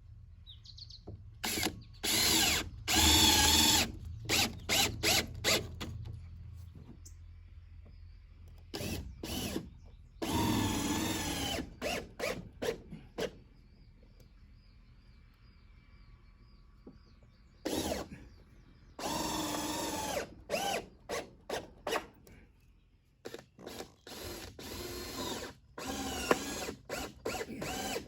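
Power drill driving screws into wood. It runs in several longer stretches of a second or two, each followed by a few short, quick squeezes of the trigger, with quiet pauses between screws.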